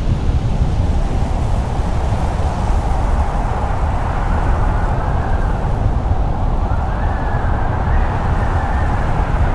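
Strong blizzard wind blowing steadily, with a deep rumble and a wavering howl that slowly rises and falls in pitch.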